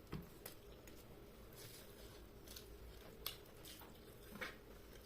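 Faint eating sounds: a few scattered soft clicks and squishes of someone chewing and eating chicken curry with rice.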